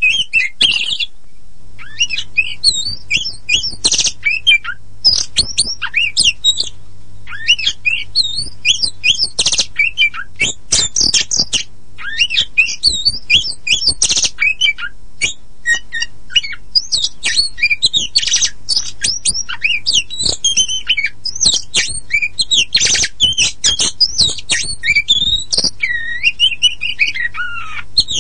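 Oriental magpie-robin (kacer poci) singing in a continuous fast stream of varied whistles, trills and harsh chattering notes, with a brief pause about a second in.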